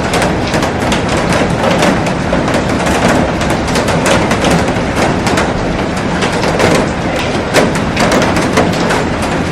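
Heavy rain falling on a glass roof and garden: a steady hiss laced with dense, sharp drop impacts.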